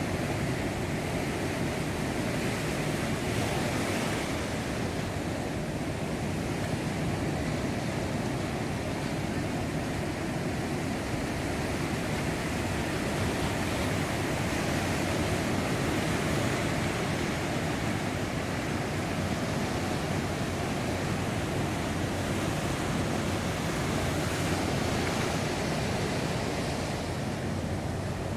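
Surf from a heavy groundswell (mar de leva) breaking on a sandy beach, a continuous wash of waves that swells gently in loudness now and then.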